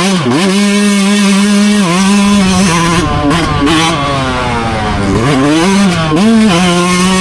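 Dirt bike engine running hard at high revs, held steady, with a few brief drops and rises in pitch as the throttle is eased off and opened again.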